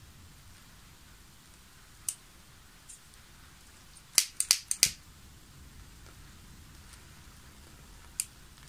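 Sharp clicks or snaps over a faint steady hiss: one about two seconds in, a quick run of five about four seconds in, and one more near the end.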